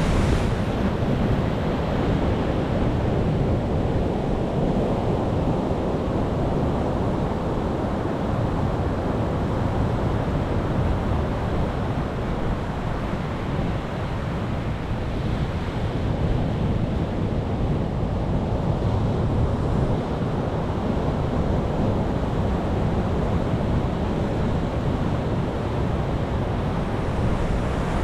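Sea waves surging and washing ashore: a continuous, steady rush of surf with a deep low rumble and slow, gentle swells in loudness.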